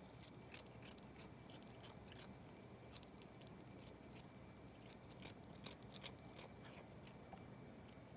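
Near silence with faint, scattered crisp clicks, a few slightly louder ones about five to six seconds in.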